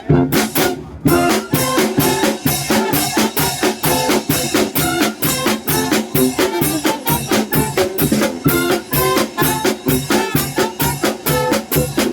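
Symphonic wind band playing, brass over a steady drum beat; the full percussion comes in about a second in.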